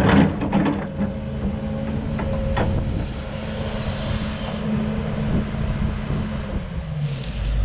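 Diesel engine of a Kobelco 210 excavator running steadily, with a couple of knocks near the start and another a few seconds in.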